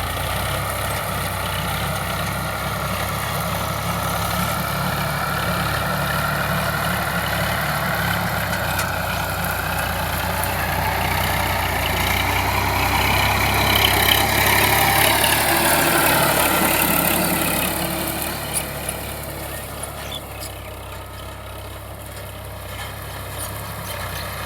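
Sonalika DI 745 tractor's diesel engine running steadily, growing louder a little past the middle and then easing back down.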